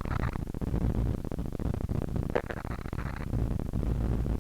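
Cessna 152's Lycoming O-235 four-cylinder engine running with a steady low drone, heard through the cockpit headset intercom, with a faint radio voice breaking in about two seconds in.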